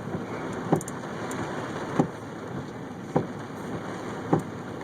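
Steady rain noise during a thunderstorm, heard from inside a vehicle, with a short low knock repeating about every 1.2 seconds.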